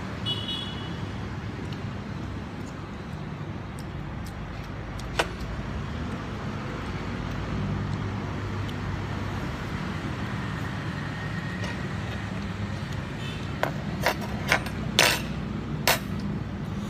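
Steady traffic noise from passing road vehicles, with a single sharp click about five seconds in and a cluster of sharp clicks near the end.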